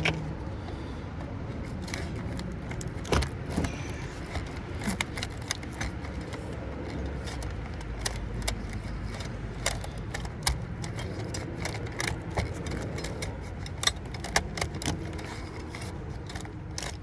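Metal clinking and rattling as a copper transformer is taken apart by hand: many sharp, irregular clinks of tools and copper pieces over a steady low rumble.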